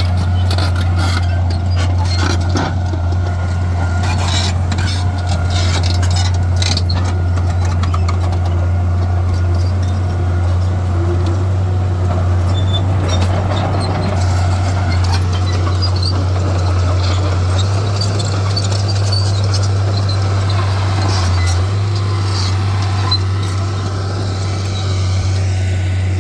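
Heavy earthmoving machinery running, its diesel engine a steady low drone, with scattered clanks and knocks in the first several seconds.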